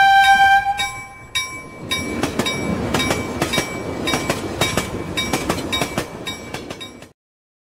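A bell-like chime rings out and fades in the first second. Then a passing train is heard, its wheels clattering over the rail joints about three times a second, until the sound cuts off abruptly near the end.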